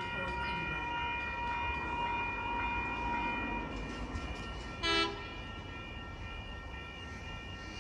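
Approaching train's low rumble with a steady high hum, and one short horn blast about five seconds in.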